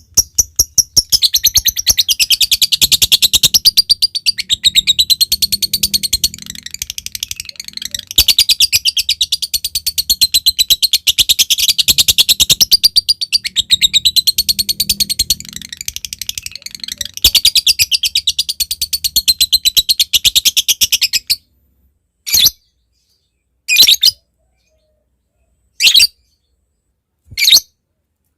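Lovebird giving a long, fast, high chattering trill (the 'ngekek panjang' sought by lovebird keepers), which opens with quick ticks, dips briefly a few times and stops about two-thirds of the way through. After that come four short, separate calls a second or two apart.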